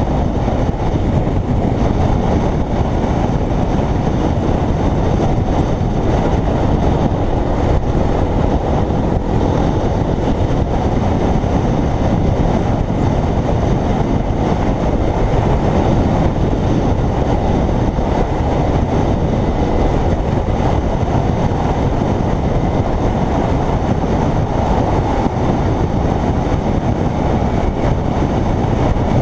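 Steady riding noise of a Kawasaki Ninja 300 motorcycle at cruising speed: wind rush on the microphone mixed with the parallel-twin engine running evenly.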